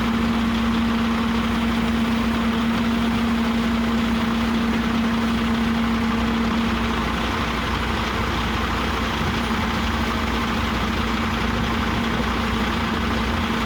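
Heavy diesel engine running steadily at idle, an even hum with a constant pitch and no revving.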